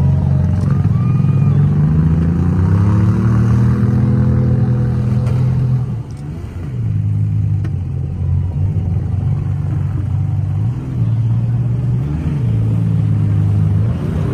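Demolition-derby minivan engines revving hard under load, the pitch climbing over a couple of seconds and then dropping and rising again several times as the vans push and spin their wheels in the mud.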